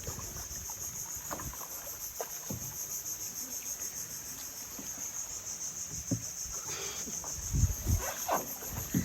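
Insects keep up a high, steady buzz with a slight pulse. A few low thumps come near the end.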